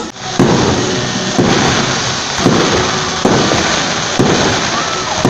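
Fireworks going off in a series of loud bangs, about one a second, each followed by a long crackling, rumbling tail.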